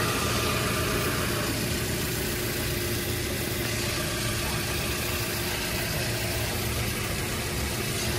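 Hyundai Solaris's 1.6-litre four-cylinder petrol engine idling steadily.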